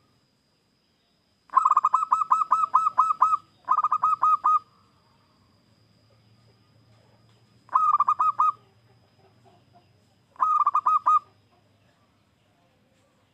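Zebra dove (perkutut) singing: four phrases of quick, evenly repeated cooing notes, the first phrase the longest.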